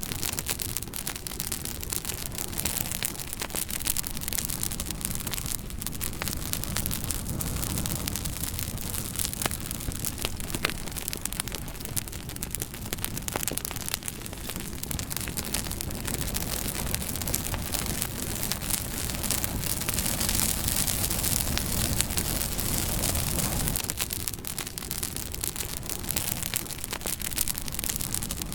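Wood fire burning in a fire pit, crackling with many small sharp pops and snaps over a steady low rush.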